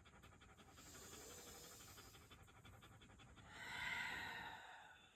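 A dog panting faintly in a rapid, even rhythm. A longer, louder breath swells and fades about three and a half seconds in.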